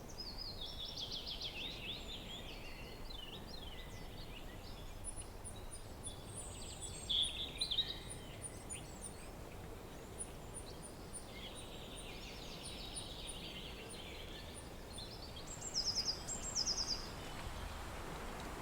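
Several wild birds singing in varied, chattering phrases over a steady low rush of wind, with a thin, high note repeated evenly in the background for much of the time. The loudest bursts of song come about seven seconds in and again near the end.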